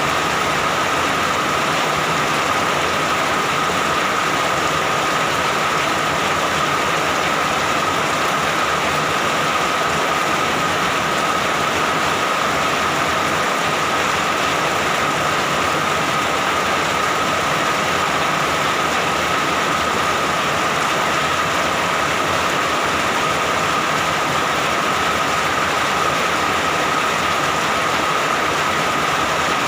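Steady rain falling, an even hiss with no letting up, with a thin steady high whine running under it.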